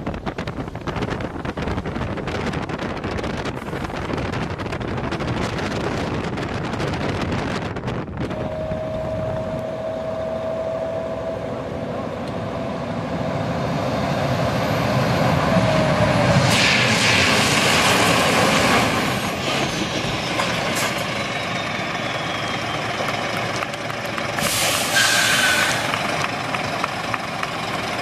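Scania-Vabis truck running during an air-brake test: a steady whistle for several seconds, then a loud hiss of air lasting a couple of seconds past the middle, and a second shorter hiss near the end.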